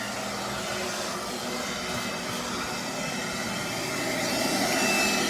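A steady mechanical whirring noise with a faint low hum, growing a little louder over the last couple of seconds.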